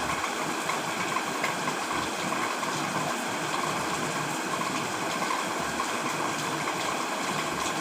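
Heavy rain falling steadily on a tent: an even hiss with many small drop ticks.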